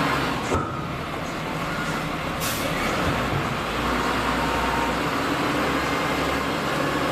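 Heavy diesel machinery running steadily, with a sharp knock about half a second in and a brief hiss about two and a half seconds in.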